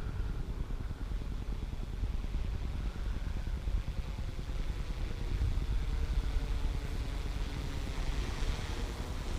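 Wind rumbling on the microphone, with the faint steady hum of a Yuneec quadcopter's propellers flying nearby.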